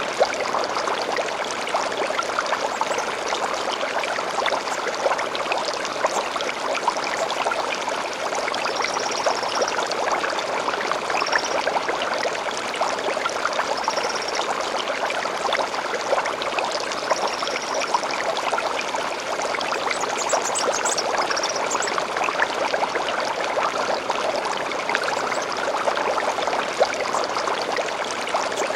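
A gentle stream flowing steadily, with short, high bird calls now and then over the water.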